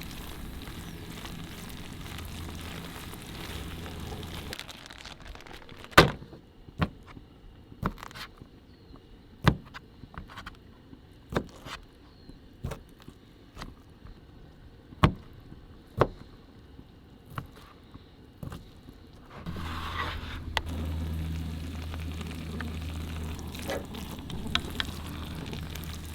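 Camp cooking: a metal spoon or utensil knocking and scraping against a pot a dozen times at irregular intervals through the middle of the stretch. A steady low hum is heard at the start and comes back near the end.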